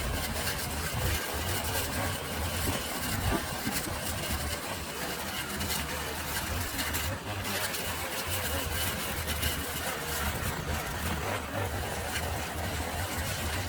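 An engine running steadily, with a constant low hum and scattered clicks and rattles over it.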